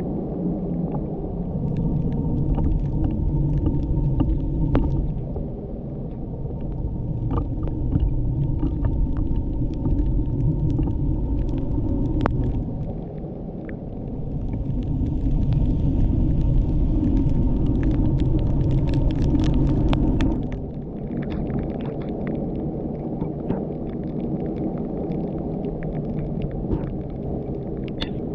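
Car driving on a wet road in the rain: a steady engine and tyre rumble with scattered ticks of raindrops on the car. A hiss rises over it for a while, and the rumble drops suddenly about twenty seconds in.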